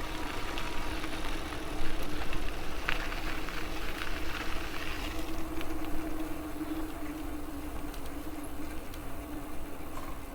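E-bike riding: tyre and wind rumble with a steady motor hum and a few light clicks and rattles.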